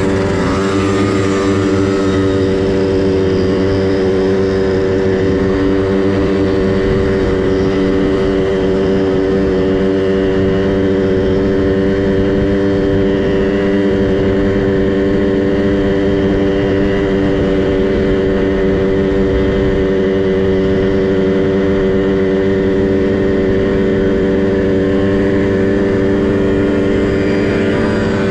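Small two-stroke minibike engine running at a steady, unchanging pitch.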